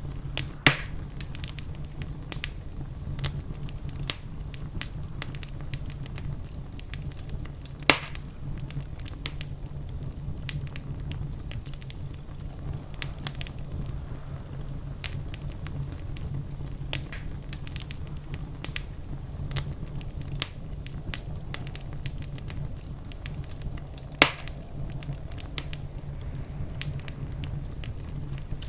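Wood fire crackling in a fireplace: a steady low rumble under many scattered sharp crackles, with three louder pops, about a second in, around the middle-third mark and a few seconds before the end.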